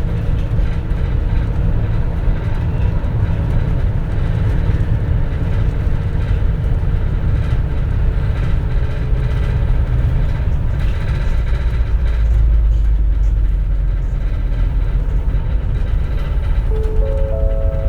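A 2004 CNG (compressed natural gas) city bus running, heard from inside the cabin: a steady low engine and road rumble, deepest in the second half. Near the end a short chime of three notes rising step by step sounds over it.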